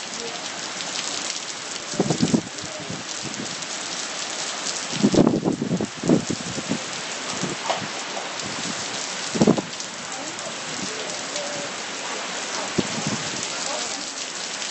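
Heavy rain pouring down in a steady dense hiss, broken by a few short, louder low rumbles about two, five and nine and a half seconds in.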